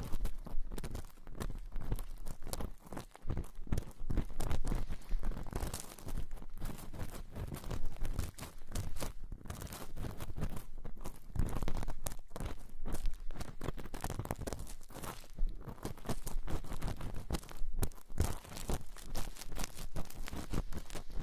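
Close-miked ASMR trigger sounds: a dense, irregular run of crinkling and crackling, as of material being crumpled or scratched right at the microphone.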